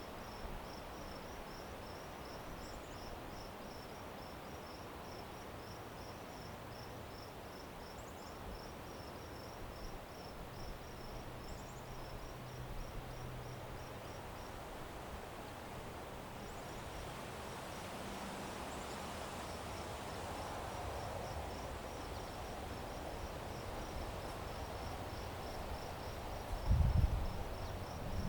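A cricket chirping in a rapid, regular high-pitched pulse, pausing briefly about halfway through, over a steady low rushing background. A broad swell of noise builds through the middle, and a few low thumps near the end are the loudest sounds.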